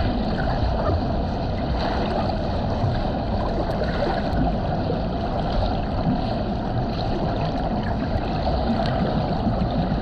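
Steady rushing, gurgling water with a low rumble underneath.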